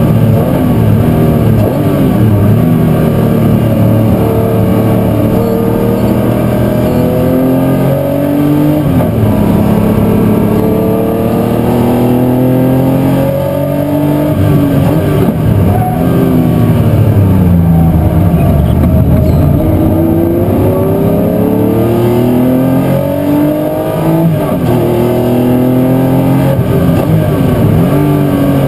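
Racing muscle car's V8 engine at full throttle, its pitch climbing under acceleration and dropping sharply at gear changes and braking points several times.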